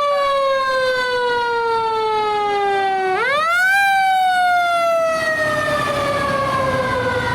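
Fire apparatus siren on a wail: the pitch falls slowly, sweeps quickly back up about three seconds in, then falls slowly again. A heavy vehicle's engine rumble grows louder in the second half.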